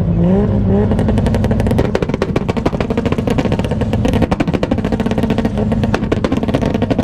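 Toyota Supra engine revved up and then held on a two-step launch limiter, with a rapid, uneven string of exhaust pops and bangs from about a second in over a steady engine note.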